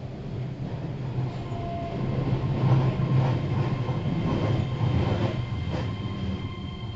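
Keihan 3000 series electric train heard from inside the car as it runs toward a station stop: a steady low running rumble that swells about three seconds in, with several uneven knocks of the wheels over rail joints and a faint steady whine above.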